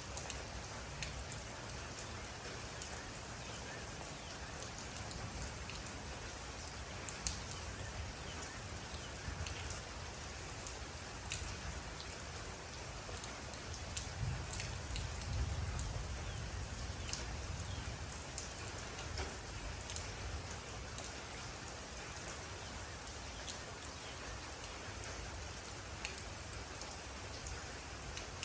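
Steady rain falling, with many separate drops ticking sharply on a surface over an even hiss and a low rumble that swells briefly about halfway through.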